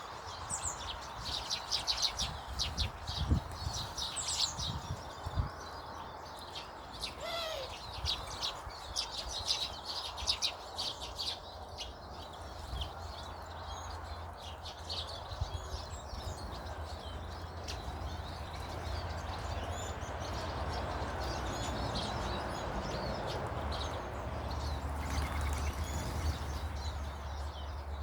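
Small garden birds chirping and twittering, with many quick high notes in the first half and fewer later, over a steady low rumble.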